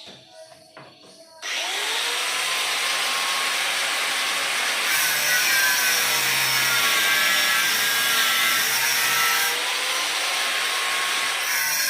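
A power tool starts up suddenly about a second and a half in, after a few light knocks, and runs continuously. It gets harsher and louder for a few seconds in the middle.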